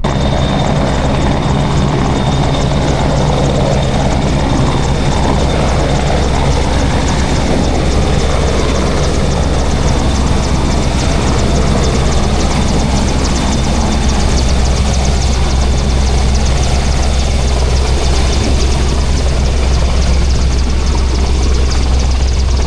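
Small boat's engine running steadily under way, a constant low drone.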